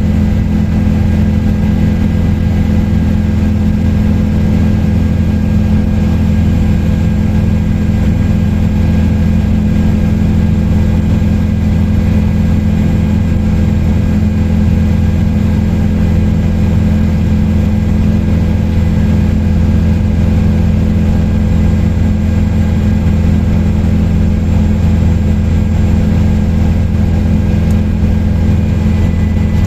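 Helicopter in steady cruise flight: a constant loud drone of rotor and engine, with a thin steady whine above it.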